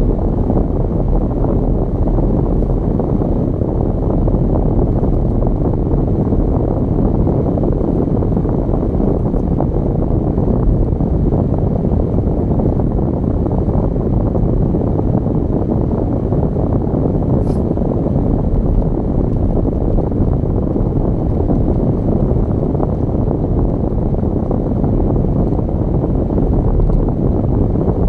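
Steady low rumble of a car driving, road and wind noise with no engine note standing out. There is one faint click about two thirds of the way through.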